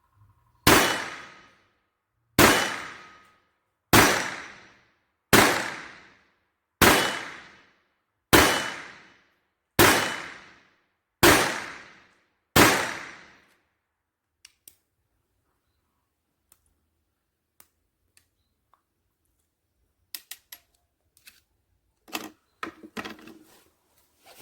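Taurus PT-22 .22LR pistol firing Norma Match 1 cartridges: nine shots about a second and a half apart, each with a short ringing tail. Scattered small clicks and knocks of the gun being handled follow.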